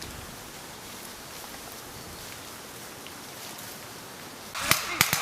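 Quiet outdoor rustle and hiss, then near the end a sudden burst of noise and a few quick, sharp gunshots from rifle fire during a squad assault drill.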